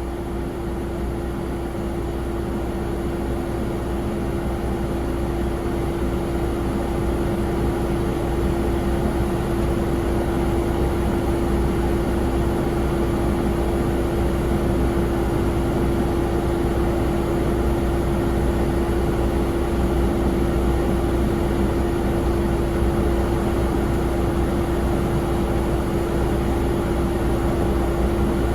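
Jet airliner running on the ground: a steady whine over a low rumble, slowly growing louder.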